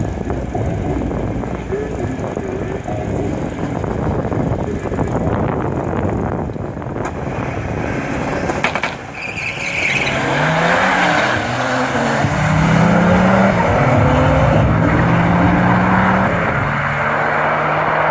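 Turbocharged Moskvich pickup's engine rumbling at the drag-strip start line, then launching: from about ten seconds in it revs up in rising sweeps broken by gear changes and runs on at a steady high drone as it pulls away down the quarter mile.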